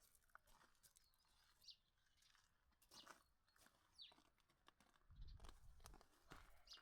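Near silence, with a few faint, short, high bird chirps about two seconds apart and a faint low rumble a little after five seconds in.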